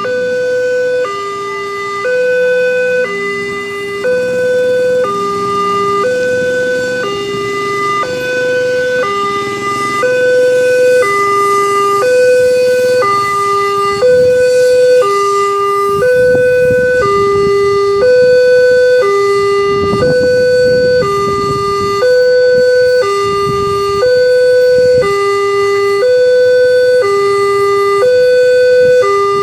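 Railway level-crossing warning alarm sounding a steady two-tone hi-lo pattern, each tone about a second long, the signal that a train is approaching. A low rumbling noise builds underneath from about halfway.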